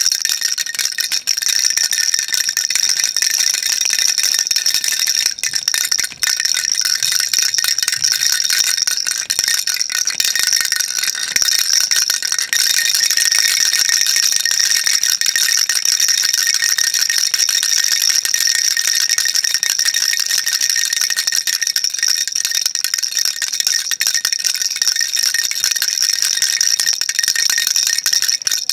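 A baby rattle shaken without pause: a dense, even, high-pitched rattling that keeps the same character throughout.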